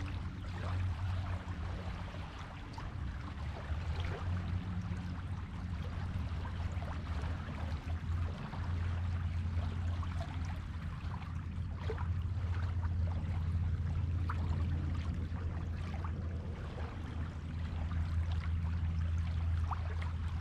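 Sea waves washing on a beach: a constant low rumble of surf under a steady wash, with small crackles throughout.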